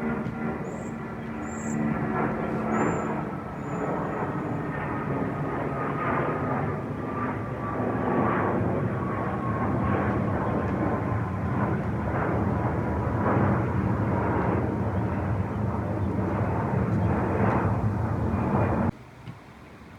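Jet airliner passing low overhead: a steady engine roar with a thin whine that slowly falls in pitch. The sound cuts off abruptly about a second before the end, and a few high bird chirps are heard near the start.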